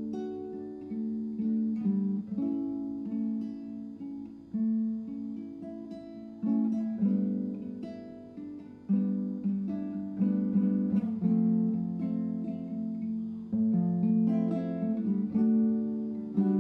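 Acoustic guitar music: plucked notes and strummed chords, each struck and left to die away, a new one about every second.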